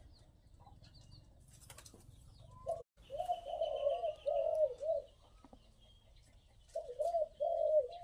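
A dove cooing in rolling runs of repeated notes, one run about three seconds in and another near the end, with small birds chirping faintly.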